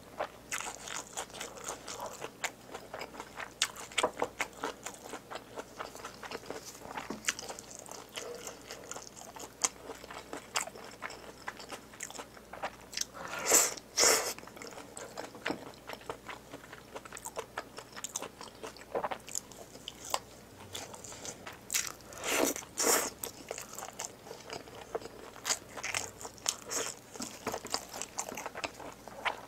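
Close-miked mouth sounds of a person eating spicy braised pig's trotters: wet, sticky chewing with many small clicks and smacks, and a few louder bites about halfway and about two-thirds of the way through.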